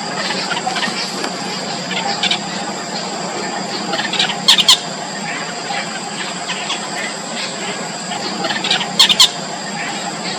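Yellow bittern nestlings giving thin, squealing begging calls in the nest, short calls repeated all through, with two louder bursts of calling about four and a half seconds in and near the end.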